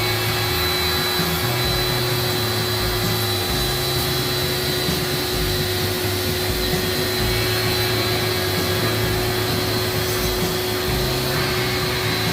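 A motor-driven cleaning machine running steadily: a rushing noise with a constant low hum and a high whine, starting and stopping abruptly.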